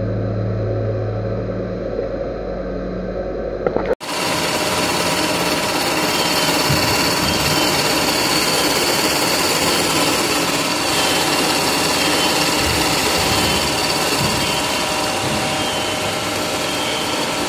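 Workshop machine running: a steady low hum, then after an abrupt cut about four seconds in, a louder, even mechanical running noise with several steady high whining tones.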